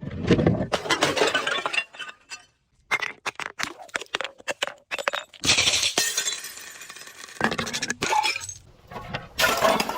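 Glass bottle being crushed and shattering: bursts of dense crunching glass, with sharp clinks and cracks of shards in between. A run of separate clicks falls in the middle, and another long crunch follows it.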